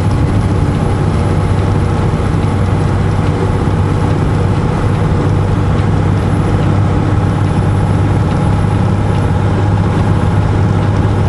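Semi-truck's diesel engine running steadily, heard from inside the cab as a constant low drone.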